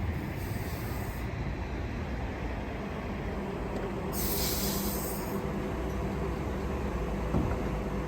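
A train running through the station with a steady low rumble, and a brief high hiss about four seconds in.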